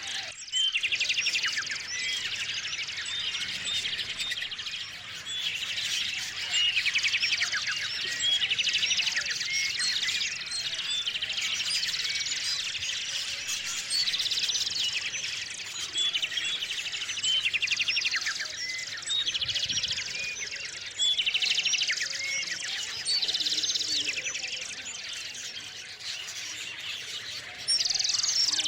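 Small songbirds chirping. A rapid, high trill comes back every two to three seconds over scattered short chirps.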